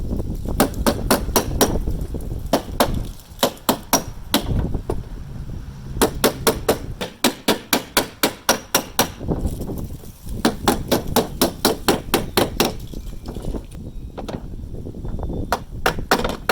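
Hammer blows on the sheet-metal body panel of a Lexus SC430, struck in quick runs of several blows a second with short pauses between the runs: hand-straightening crumpled body metal.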